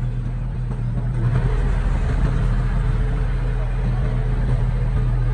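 Diesel engine of heavy earthmoving equipment running steadily, a little louder from about a second in.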